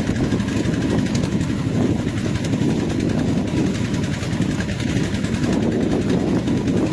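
Vehicle engine running steadily under a dense, even rumble while driving over a bumpy off-road dirt track.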